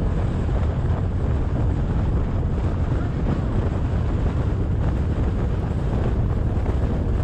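Motorcycle cruising at steady road speed: a continuous low engine and road drone, with wind buffeting the microphone.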